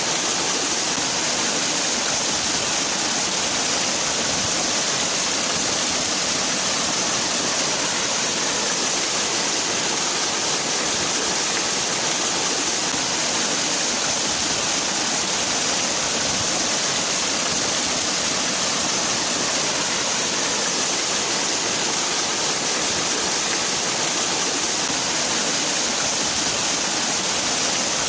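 Waterfall: a steady, unbroken rush of falling water, with a hissing upper edge.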